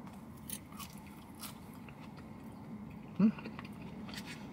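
A person chewing cheese-and-bacon-topped fries, soft mouth sounds with a few faint clicks, and a brief murmur from the eater about three seconds in.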